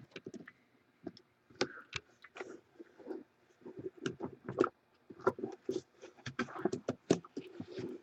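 Hands handling trading cards and their box packaging: scattered small clicks, taps and light scrapes, coming more often in the second half.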